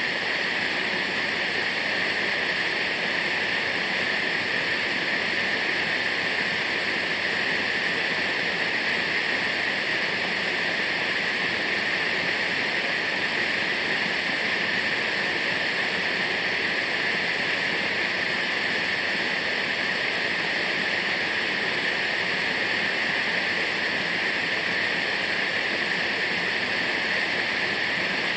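Waterfall: falling water rushing at a steady level, a hissing noise with little low rumble.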